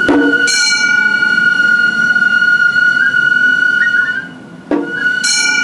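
Gion festival hayashi music: a Japanese transverse festival flute holds one long high note with small rising flourishes, over two sharp struck beats, each followed by the bright ringing of small hand gongs.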